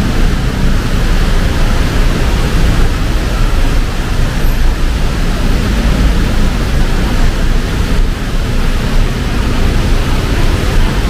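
Heavy rain pouring, a loud steady hiss with a low rumble underneath.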